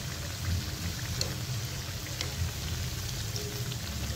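Potato pakoras deep-frying in hot oil in a nonstick pan: a steady, rain-like sizzling hiss with scattered small crackles.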